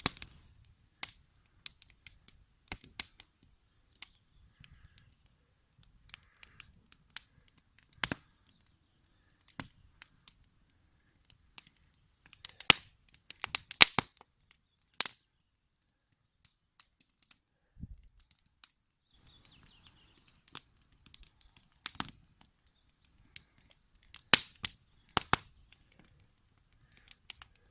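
Campfire crackling: sharp pops at irregular intervals, now and then bunching into quick clusters of cracks.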